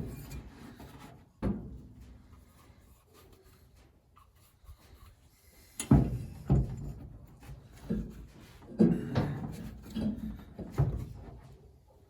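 Knocks and clunks of parts and tools being handled during fuel tank fitting work: a single knock about a second and a half in, another pair near the middle, then a quicker run of knocks in the second half.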